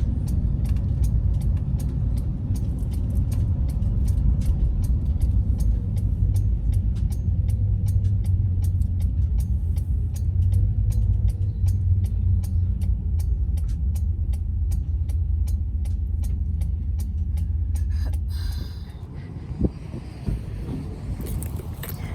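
A car's road noise: a steady low rumble with an even, fast ticking at about two or three ticks a second. The rumble and ticking drop away about three-quarters of the way through, leaving a quieter hum.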